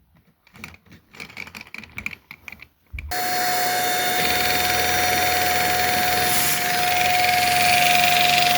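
Plastic clicking and rattling of Lego parts, then about three seconds in a Lego engine model starts running under its electric motor: a steady mechanical whirr with a constant whine.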